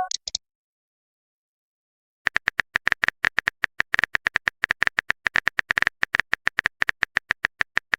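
Keyboard typing sound effect: a long run of rapid, even clicks, about eight a second, starting about two seconds in. It follows the tail of a short message-notification chime.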